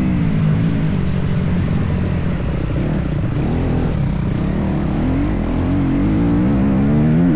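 Motocross bike engine running under throttle: its pitch holds fairly steady for a few seconds, then climbs and wavers near the end as the revs rise.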